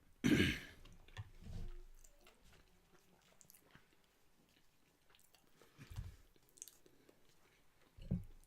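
Close-up eating sounds: a person chewing food with wet mouth noises, with a louder sudden sound just after the start and a few softer low thumps later on.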